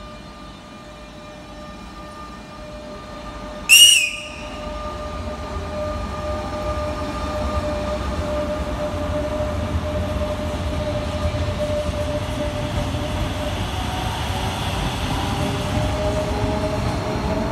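Renfe class 447 electric commuter train giving one short, high-pitched horn blast about four seconds in. It then runs past along the platform with a swelling rumble of wheels on rails and a steady whine that climbs in pitch near the end.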